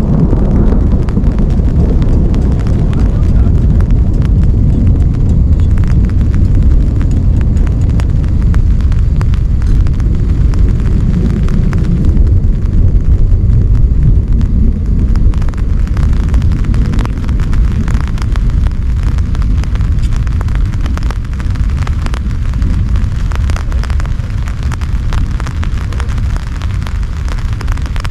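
Heavy rain falling hard and steadily, a deep rumbling wash with many close drops ticking sharply over it, easing slightly in the second half.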